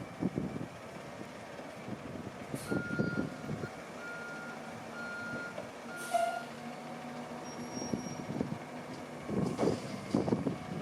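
Autocar front-loader garbage truck's diesel engine running while its reversing alarm gives a run of evenly spaced single-pitch beeps in the middle, with a couple of short air-brake hisses.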